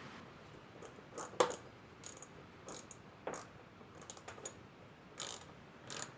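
Scattered sharp clicks and ticks, about a dozen at irregular intervals, from plastic screws being threaded by hand into freshly drilled holes.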